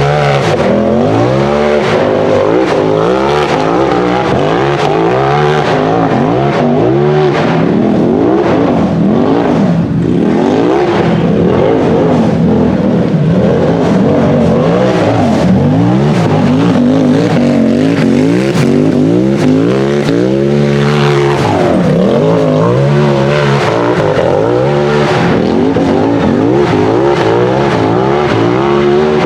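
A UTV buggy's engine revving hard under load, its pitch rising and falling continuously as the throttle is worked. About a third of the way in, and again around two-thirds, the revs drop sharply and climb back.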